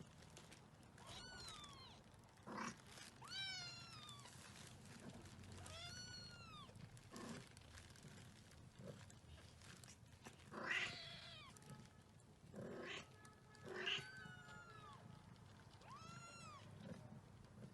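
A cat meowing about six times, each meow rising and then falling in pitch, with the loudest about halfway through.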